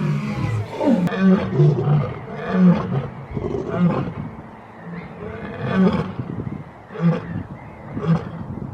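Lion roaring: a series of short, deep grunting roars, close together at first and then about one a second, the closing grunts of a roaring bout.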